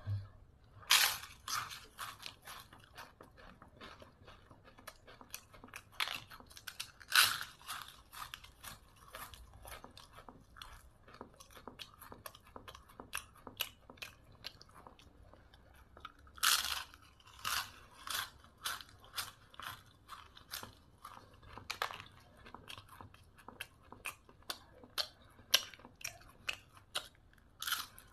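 Close-up crunching of a crisp papad being bitten and chewed, with mouth sounds. Irregular sharp crunches come in quick runs, with a handful of much louder bites standing out.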